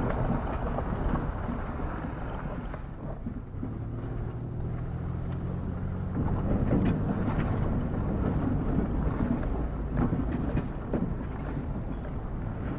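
A motor vehicle running: a steady low engine and road rumble, with a steady engine hum standing out between about three and six seconds in.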